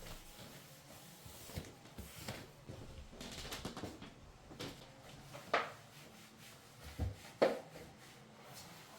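Household objects being handled: a few light knocks and clicks with some rustling, the two loudest knocks about five and a half and seven and a half seconds in.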